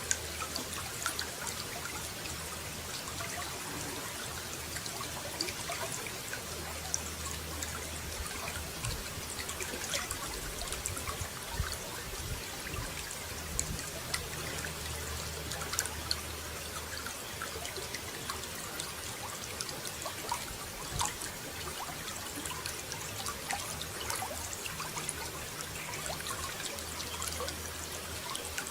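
Water running and trickling steadily, with many small splashes and drips.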